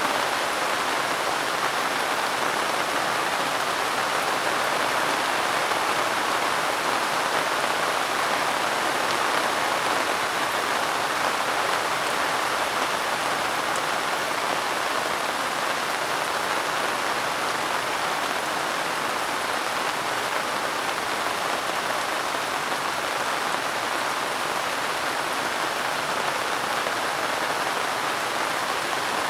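Soft rain falling steadily, an even unbroken hiss.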